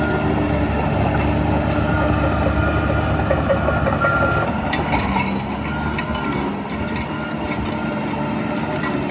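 Heavy diesel earthmoving machinery running steadily, with a brief high squeal about four seconds in and scattered light clicks and clanks after.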